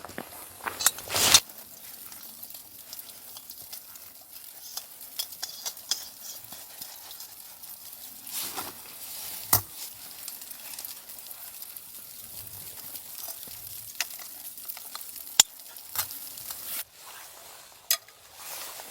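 Food sizzling in a pan, with stirring scrapes and clicks throughout and a louder burst of knocks about a second in.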